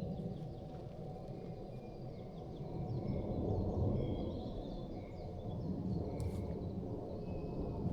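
Forest ambience: a steady low rushing noise with several birds calling in short high whistled notes throughout.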